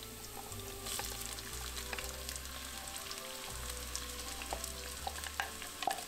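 Hot oil sizzling in a pot as crushed garlic, ginger and cumin seeds fry, while chopped onion is tipped in, with a few light taps of a utensil against the pot or bowl.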